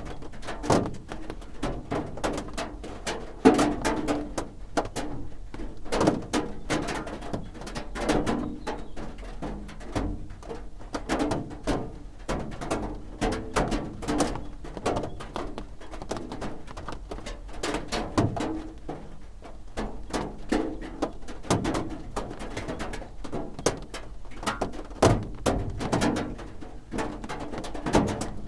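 Rain drumming on a roof: a dense, irregular patter of drops hitting many times a second, with no let-up.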